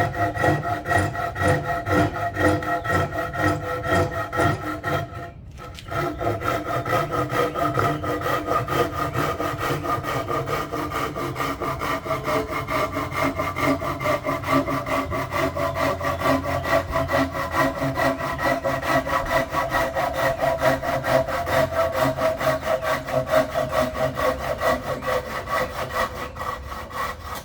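Hand saw cutting through a pine board in steady back-and-forth strokes, with a brief pause about five seconds in before the sawing resumes and runs until the cut is through near the end.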